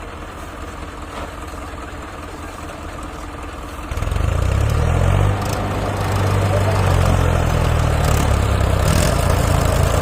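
Tractor diesel engine running, then revving much louder about four seconds in, its deep pitch shifting before it holds steady.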